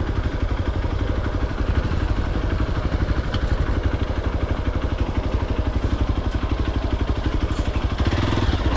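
Motorcycle engine running steadily at low revs, its exhaust a fast, even pulsing.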